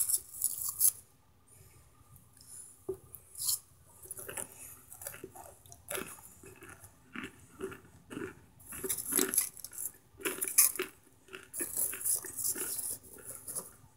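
Close-up crunching and chewing of hard microwave-baked cornstarch chunks, in irregular crisp crunches with short pauses between bites.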